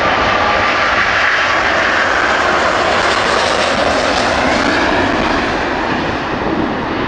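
Airbus A380's four Engine Alliance GP7200 turbofans at takeoff thrust: a loud, steady jet roar, easing slightly near the end.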